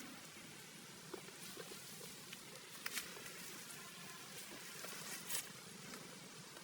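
Faint scattered clicks and light rustling over a steady hiss, with a sharper click about three seconds in and another just past five seconds.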